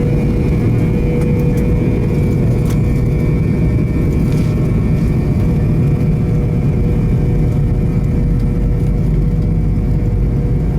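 Cabin noise of a McDonnell Douglas MD-88 heard from a rear window seat: the tail-mounted Pratt & Whitney JT8D turbofans run at a steady level, a low rumble with a steady whine over it.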